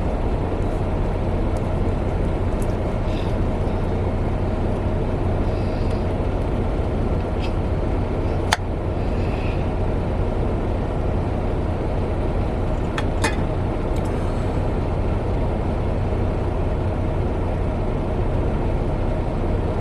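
Semi-truck's engine running steadily, heard inside the cab as a low, even hum, with a few sharp clicks.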